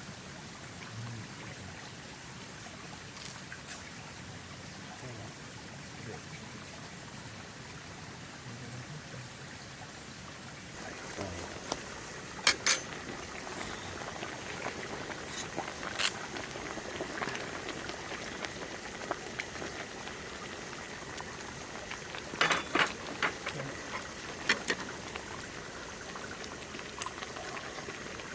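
Food cooking in a pan: a steady hiss that gets louder about eleven seconds in, with scattered sharp pops and clicks.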